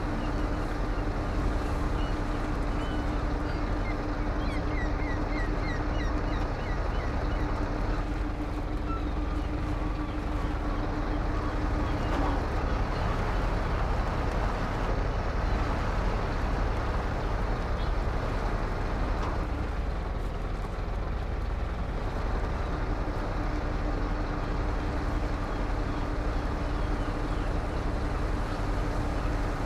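Truck engine running with a steady low rumble while driving, with a steady hum over it that drops out for a stretch in the middle and comes back near the end.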